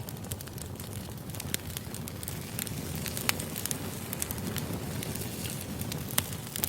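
Firewood burning: a steady low rumble of flames with frequent sharp crackles and pops, a few of them louder than the rest.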